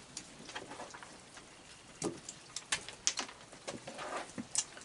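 Rain falling, with scattered irregular drips and light taps.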